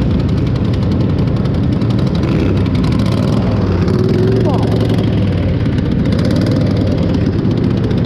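Pulling tractor engine running loudly and steadily, a deep continuous rumble.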